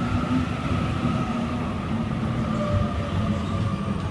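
Passenger train moving through the station, with a continuous low rumble and a steady motor whine whose higher tone drifts slightly lower.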